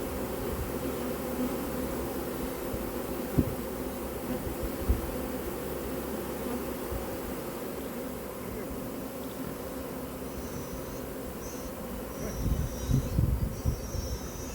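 A honey bee swarm buzzing steadily all around, a dense hum of many bees flying. A few low thumps come in near the end.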